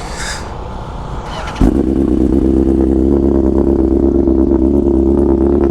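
BMW S1000RR inline-four engine starting up about one and a half seconds in, then idling steadily.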